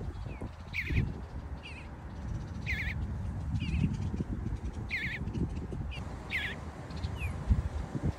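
A bird calling repeatedly, one call about every two seconds, with short falling notes in between.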